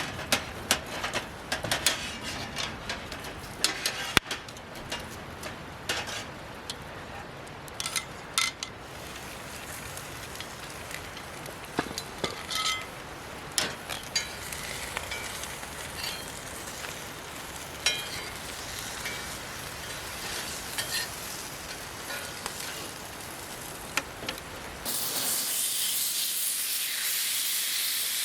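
Pork frying in a cast-iron skillet, sizzling steadily, with frequent sharp pops and utensil clicks, thickest in the first nine seconds. About 25 seconds in, a much louder, high steady hiss starts suddenly.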